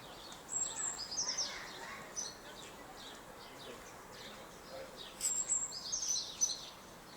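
Small birds chirping: two bursts of quick, high, short chirps, one starting about half a second in and another about five seconds in, over steady background noise.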